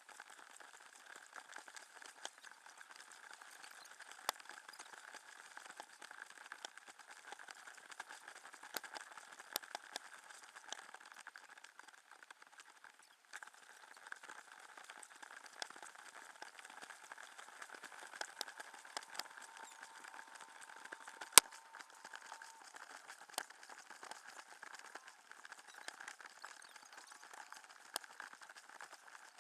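Faint water lapping and dripping around an inflatable kayak: a soft steady hiss with scattered small clicks and taps, and one sharper click about two-thirds of the way through.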